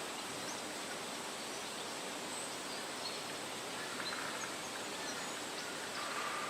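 Steady wind rustling through tree leaves, with faint, short bird chirps scattered through it.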